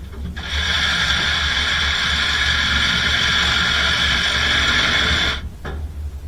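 A power tool's motor running at a steady high whine for about five seconds, then stopping.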